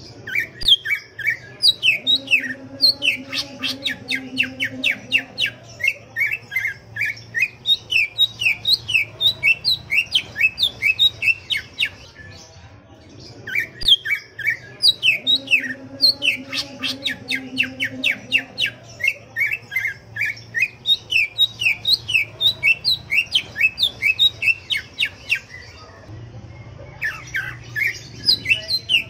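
Cucak ijo (green leafbird) singing hard in long, rapid strings of sharp, sliding whistled notes. It pauses briefly about halfway through, then sets off again twice.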